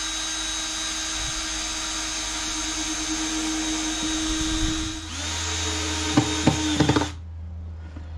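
Power drill running steadily while drilling pilot holes into wooden boards, so the screws won't split the wood. About five seconds in it pauses briefly, runs again for about two seconds with a few knocks, then stops.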